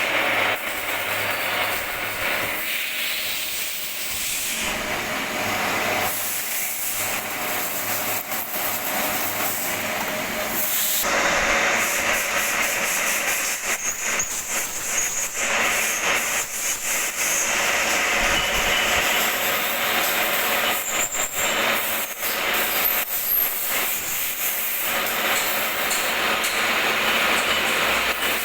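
Metal lathe running with its cutting tool working a metal part: a steady hissing cutting noise, with brief high squeals now and then.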